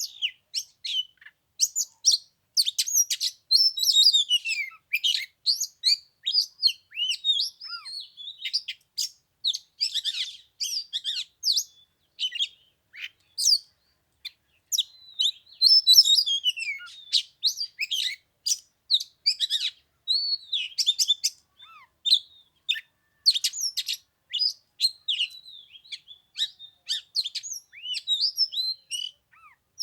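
Oriental magpie-robin singing a long, varied song of clear whistles, slurred notes and sharp chirps, with a brief pause about halfway through.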